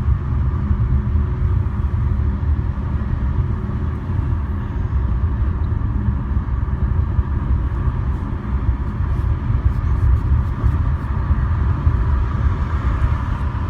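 A steady low rumble throughout, typical of road and engine noise inside a moving vehicle.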